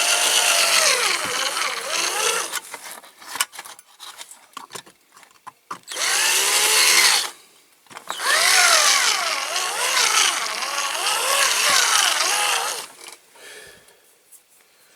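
Small cordless drill drilling out the rivets of a diecast metal toy, its battery running low. It runs in three bursts, the motor's whine rising and falling in pitch as it bites, the longest burst about four seconds near the middle.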